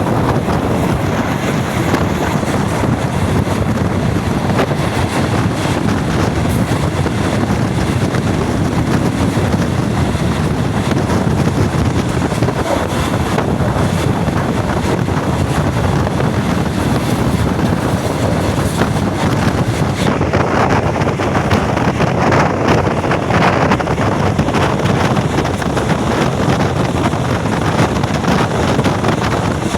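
Passenger train under way: a steady rumble of the running train with wind buffeting the microphone.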